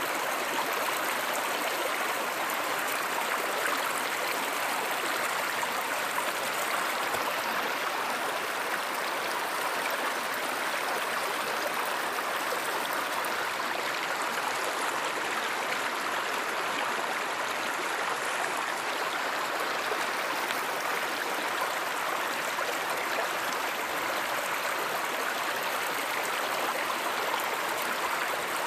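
Flowing river water, a steady, unbroken rush with no change in level.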